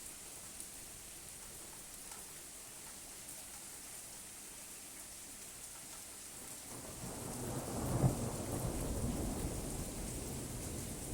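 Steady rain falling, with a roll of thunder that builds from about two-thirds of the way in, peaks with a sharp crack, and keeps rumbling to the end.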